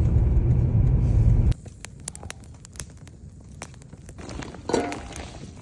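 A loud low rumble that cuts off suddenly about a second and a half in. It gives way to a campfire crackling, with scattered sharp snaps, and a short louder sound with a pitch near the end.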